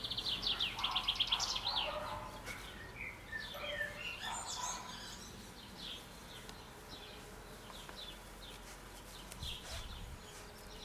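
Songbirds singing: a fast, even trill of high notes in the first second or so, then scattered short chirps and whistles.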